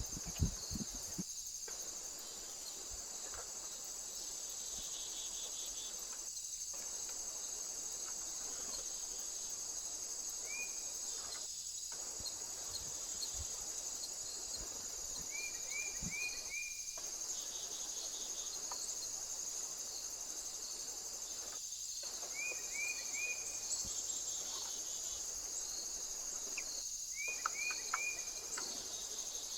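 Steady high-pitched chorus of insects trilling, with short runs of three or four quick falling chirps repeating every few seconds.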